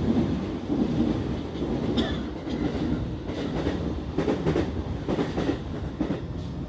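Electric commuter train running on the rails, heard from inside the car: a steady wheel-and-rail rumble with clusters of clicking and clattering as the wheels pass over the track.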